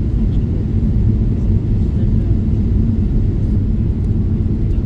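Steady low rumble inside the cabin of a Boeing 777-300ER during landing: engine and airflow noise, even throughout with no distinct events.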